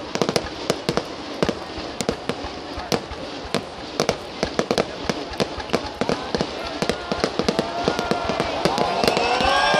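Aerial fireworks shells bursting overhead in quick succession: a dense string of sharp bangs and crackles, several a second. Near the end, voices rising and falling come in over the bangs and grow louder.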